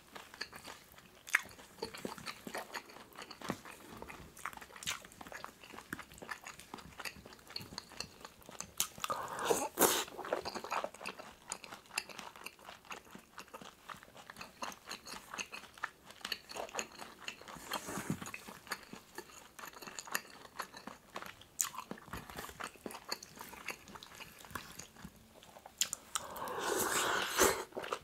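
Close-miked chewing and wet mouth sounds of someone eating pork kimchi stew mixed with seasoned seaweed flakes and soft-boiled egg, with many small clicks and smacks. Two louder stretches of eating come about ten seconds in and near the end.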